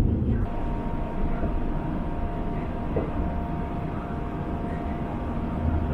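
Running noise inside a moving CRH electric commuter train: a steady low rumble of the train on the track, with a steady whine that comes in about half a second in.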